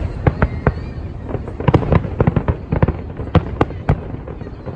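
Fireworks display going off: many sharp, irregular bangs and pops, several clustered together around two seconds in, over a continuous low rumble of more distant bursts.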